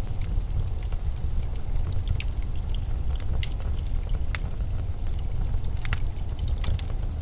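Blizzard wind as a steady deep rumble, with scattered sharp little ticks and crackles over it.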